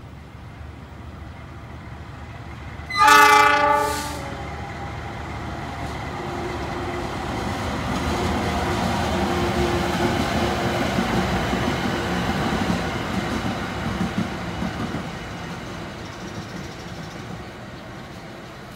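A KAI diesel locomotive sounds its horn once, a loud blast of about a second, a few seconds in. Then its engine and running noise grow louder as it passes close by, and fade away.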